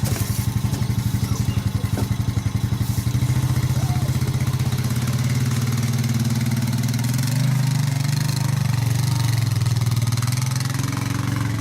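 Honda 420 four-wheeler's single-cylinder engine running at low speed: an even throb for the first few seconds, then a smoother note that rises a little about seven seconds in and again near the end.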